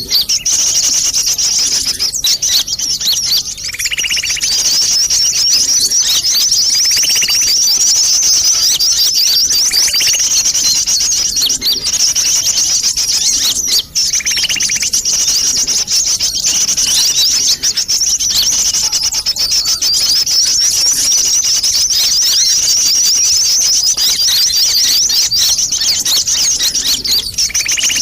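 Sunbirds calling: a dense, unbroken, high-pitched twittering chatter, with a lower buzzy note breaking in every few seconds. This is a recorded lure call of the kind played to attract small birds.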